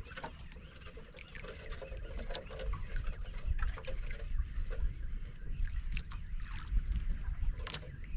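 Wind rumbling on the microphone, with scattered short clicks and brief squeaks, while a fish is being fought on a boat.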